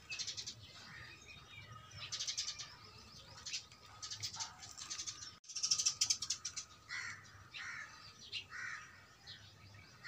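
Birds calling: bursts of rapid chattering calls, then from about seven seconds in a run of separate harsh calls repeated several times.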